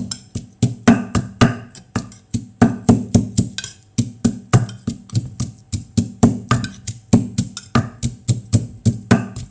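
Pestle pounding in a mortar, steady repeated knocks at roughly three a second, crushing garlic, chilies and long beans for papaya salad.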